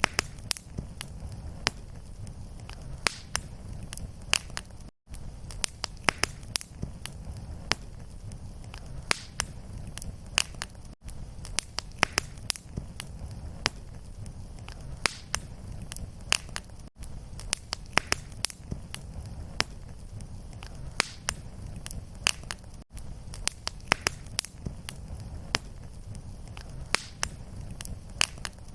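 Wood fire crackling in a fireplace: frequent sharp pops and snaps over a steady low rumble of the flames. The sound cuts out for an instant about every six seconds where the sound loop repeats.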